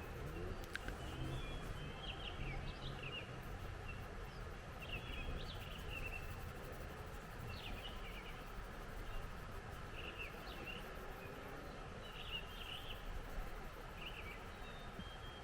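A songbird singing short chirping phrases, one every couple of seconds, over a steady background rush of mountain wind.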